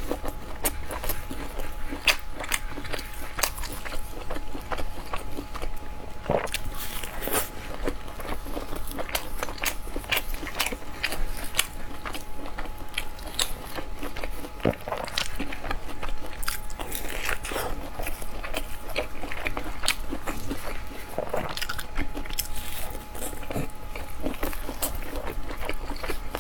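A person biting and chewing food close to the microphone: a dense, irregular run of wet clicks and crunches. A faint steady whine runs underneath.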